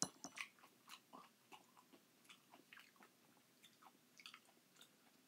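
Faint eating sounds of a person chewing canned crushed pineapple, with a string of small clicks and smacks, the loudest in the first half second.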